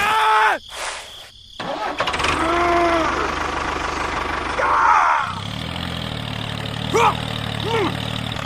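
A small engine starts about a second and a half in and runs steadily, settling into an even low hum about five seconds in. Short arching calls like bleats sound over it at the start and a few more times.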